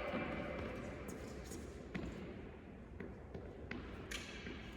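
A tennis ball bouncing on an indoor court: a few faint, sharp bounces spaced about a second apart, over a low hall hum.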